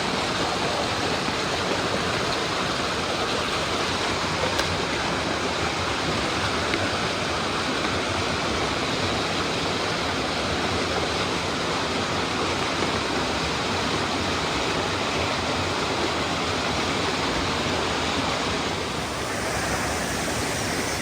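Steady rush of a mountain stream's water pouring over rocks.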